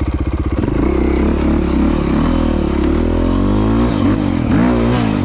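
Off-road single-cylinder engine running loud and close, its speed climbing gradually and then rising and falling quickly a few times with the throttle near the end.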